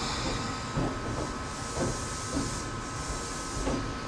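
Ohmi Railway local train running, heard inside the carriage: a steady rumble with a thin steady tone and soft knocks about twice a second. Bouts of high hiss come about a second in and again near the end.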